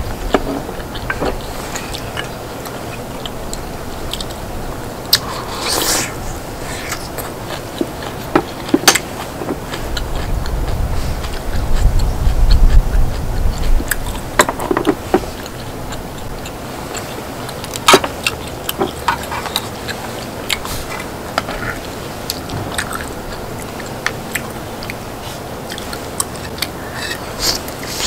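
Close-up eating sounds: chewing and biting into spicy braised chicken, with scattered sharp clicks throughout. A low rumble swells around the middle.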